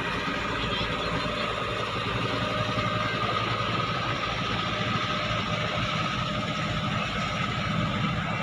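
Klotok river boat's engine running steadily, with a constant hum and a steady whine.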